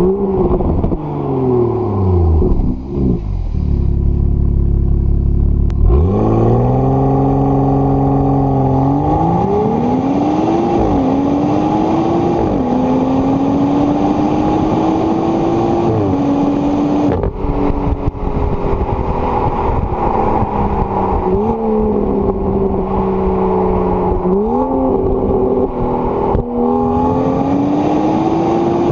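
2016 BMW X4 M40i's turbocharged 3.0-litre straight-six engine and exhaust, being driven. Engine speed falls off over the first few seconds, then about six seconds in the car accelerates, the pitch climbing and dropping sharply at each upshift. After that it runs at a steadier speed with a few short bursts of throttle.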